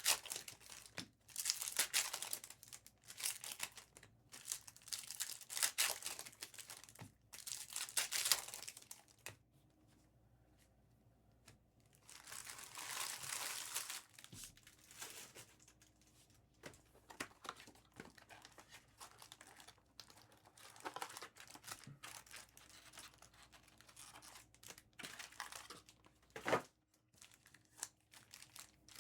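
Trading card pack wrappers being torn open and crinkled by hand, in repeated crackly bursts that come thickest in the first several seconds and again around the middle, thinning to scattered light crackles later.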